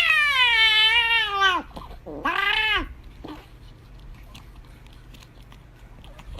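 Domestic cat screaming: one long loud yowl that drops in pitch as it ends, then a second, shorter yowl about two seconds in.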